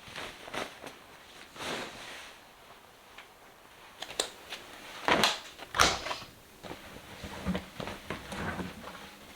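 Objects being handled in a small room: a scatter of light knocks and clicks, the two loudest a little past five and six seconds in.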